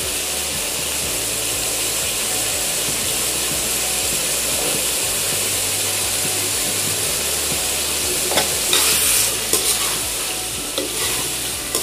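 Tomato masala with freshly added raw potato slices sizzling steadily in a metal kadhai. From about eight seconds in, a slotted steel spoon stirs and scrapes the potatoes against the side of the pan.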